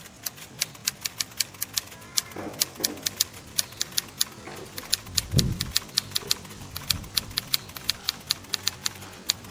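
A quick, uneven run of sharp clicks or light taps, about three to four a second, with a duller thump about five seconds in.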